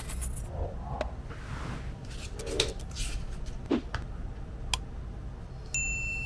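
Small objects being handled: a few sharp clicks and soft rustles. A steady high tone begins abruptly near the end.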